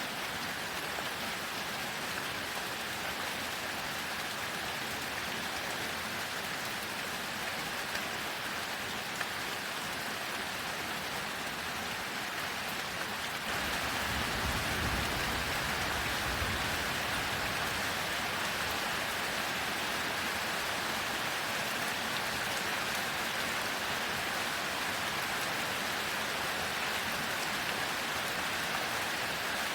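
Steady heavy rain, a dense even hiss. About halfway through, the rain grows a little louder and a low rumble of thunder rolls under it for a few seconds.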